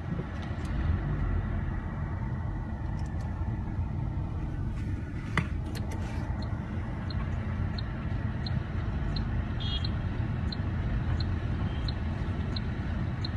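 Strong wind buffeting the microphone: a steady low rumble. In the second half a faint high chirp repeats about twice a second.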